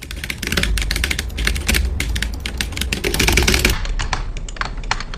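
Rapid, irregular clicking and tapping, many strokes a second, thinning out to scattered clicks about three and a half seconds in.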